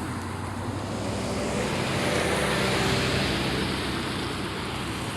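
Freight train rolling past: a steady rumble of wheels on rail over a low engine hum, swelling slightly in the middle.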